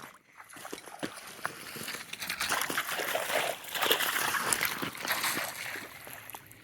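Water splashing and sloshing among rocks, with scattered small clicks; it builds up over a few seconds, then dies away near the end.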